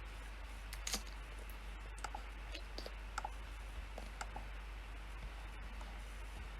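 A handful of scattered keystrokes on a computer keyboard, sharp irregular clicks through the first four and a half seconds, then a pause. A steady low hum and faint hiss run underneath.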